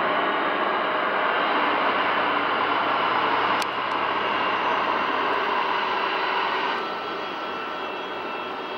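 Jet airliner engines running, a steady rushing sound with faint whining tones, easing off somewhat about seven seconds in.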